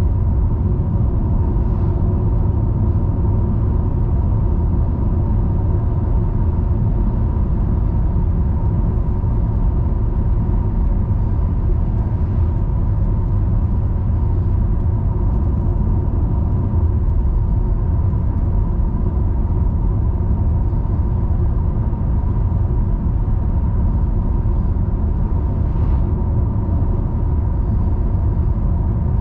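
Car driving along at a steady pace: a continuous low rumble of engine and road noise with a faint steady hum over it.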